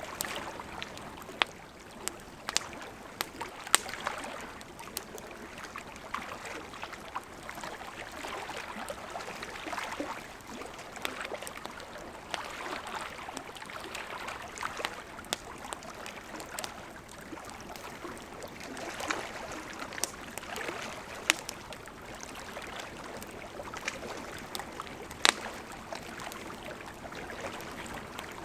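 Campfire crackling, with scattered sharp pops, over the steady rush of a gently flowing river.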